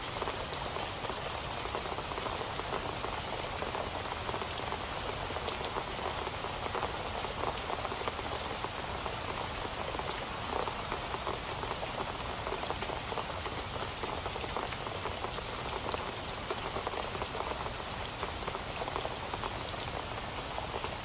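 Steady rain falling, with many individual drops pattering on a hard surface.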